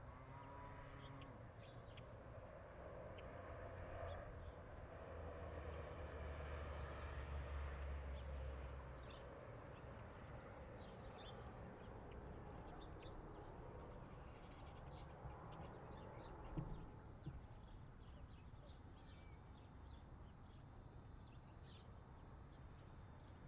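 Faint night-time forest ambience near a city: a low distant rumble, typical of far-off traffic, that swells for a few seconds and fades, with scattered short high chirps and one small click.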